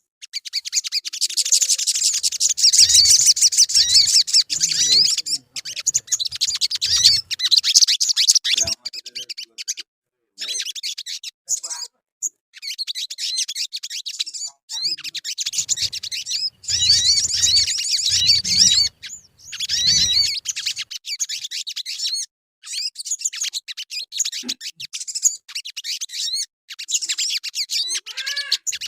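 Sogon bird singing: rapid, high, twittering chatter delivered in long runs with short breaks between them. This is the sogon's call used as a lure recording to set other sogon birds singing.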